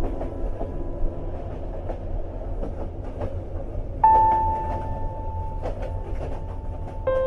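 Moving train running with a steady low rumble and occasional faint clicks from the wheels on the rails. Soft held keyboard notes sound over it, a brighter one coming in about four seconds in.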